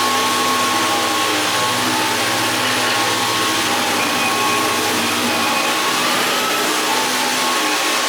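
Vacuum cleaner running steadily, with a brief rise in motor pitch about six seconds in.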